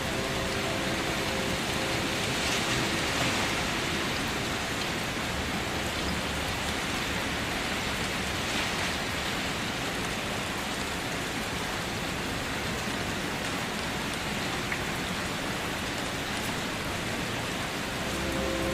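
Steady rain falling, an even continuous hiss of many drops with no pauses.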